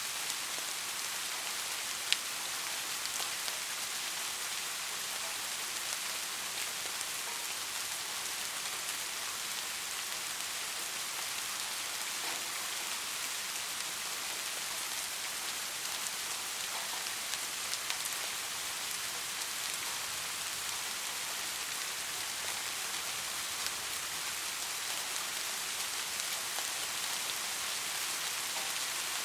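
Steady, gentle rain: an even hiss of falling rain with scattered single drops ticking on a surface, one sharper drop about two seconds in.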